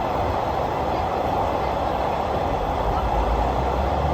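Passenger train running along the line: a steady noise of wheels and carriage, heard from on board.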